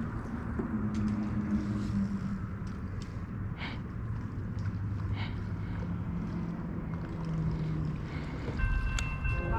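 Water noise around a kayak under way on a creek, with wind on the microphone. Two brief sounds rise out of it a few seconds in, and a set of steady high tones comes in near the end.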